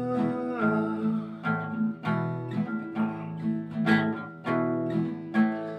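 Acoustic guitar strummed in a steady rhythm, chords ringing between strokes, in an instrumental break of a song.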